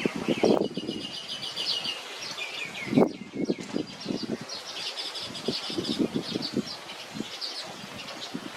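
Small songbird chirping in rapid series of high notes, with intermittent low rustles and knocks mixed in.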